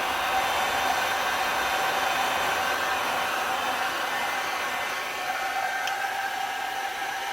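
Handheld electric hot-air blower running steadily: a continuous blowing whir with a faint steady hum, drying the alcohol ink and alloy on a tumbler.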